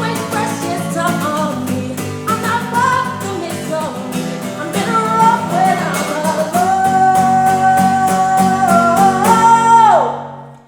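A singer accompanied by a strummed guitar. In the second half the voice holds one long note, then slides down, and the music stops abruptly near the end.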